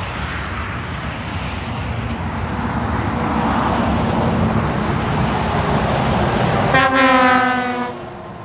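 A heavy truck passing close by, its engine and tyre noise building, then a horn blast of about a second near the end that falls slightly in pitch as it goes past.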